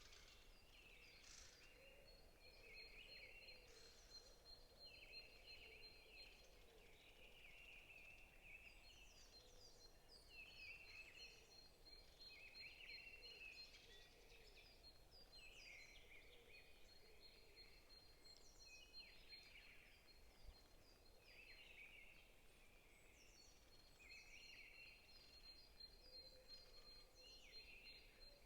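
Faint chorus of forest birds: one bird repeats a short chattering phrase about every one to two seconds, others add short high descending notes, and a high rapid steady trill runs in long stretches, breaking off a few times.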